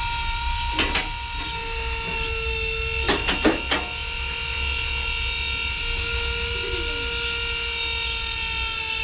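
A small electric motor running with a steady high whine, a second lower hum joining about two seconds in, and a few sharp knocks about a second in and again between three and four seconds.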